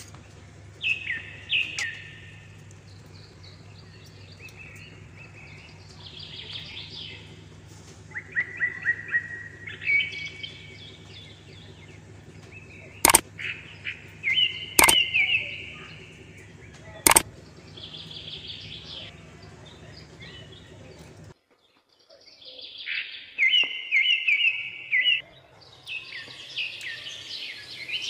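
Birds chirping and singing in short, repeated phrases, with a steady low hum beneath that cuts out about three quarters of the way through. Three sharp clicks sound around the middle.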